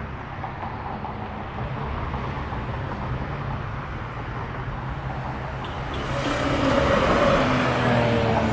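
Car engines running at low speed with a steady low exhaust drone; about six seconds in, a louder car drives close by and its exhaust note swells.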